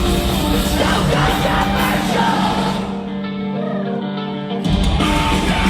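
Live rock band playing loud, amplified guitars, bass and drums with sung vocals. About three seconds in the band drops to a thinner, quieter passage, then the full band crashes back in near the end.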